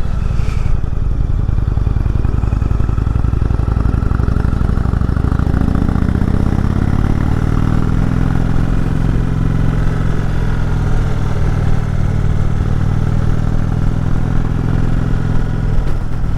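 Indian Chieftain's V-twin engine running steadily under riding load, heard from the rider's position. About a third of the way in the engine note rises and then holds steady, over a constant rush of wind on the microphone.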